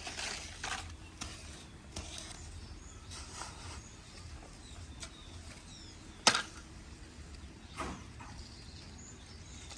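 Toy tractor being handled in mud and soil: scattered scrapes and light clicks, with one sharp click about six seconds in and a smaller one near eight seconds.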